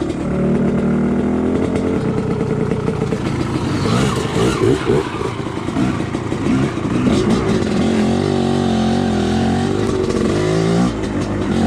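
Two-stroke dirt bike engine revving up and down as it is ridden along a trail, its pitch rising and falling repeatedly.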